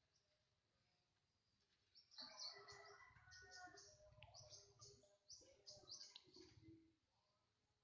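A crocokan songbird singing a rapid run of short, high chirps that starts about two seconds in and stops about five seconds later, over a faint low rumble.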